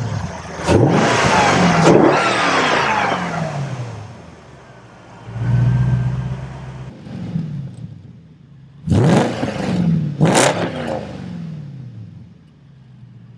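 Car engine revving hard twice, about a second in and again about nine seconds in, its pitch sliding down after each burst. A lower, steadier engine note runs between the two, and the sound fades near the end.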